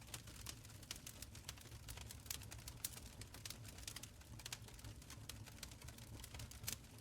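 Wood fire burning in a stone fireplace, crackling and popping with irregular sharp snaps over a low steady rumble; one louder pop comes near the end.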